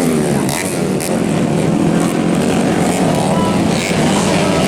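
Several dirt-bike engines revving at once, pitches rising and falling as they accelerate and shift.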